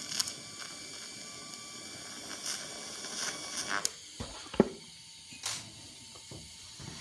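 A tack weld being laid on a steel plate: the welding arc hisses steadily for about four seconds, then stops, followed by a few separate knocks and clicks.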